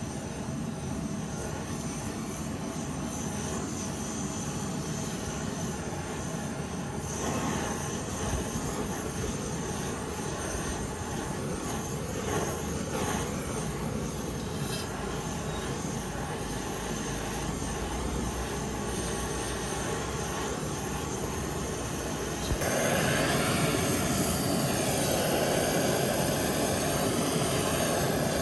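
Steady machine noise, stepping up louder about 23 seconds in.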